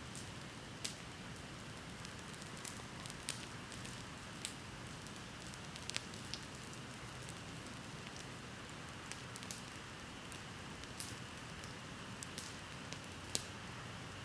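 Wood bonfire burning, crackling with sharp, irregular pops over a steady hiss.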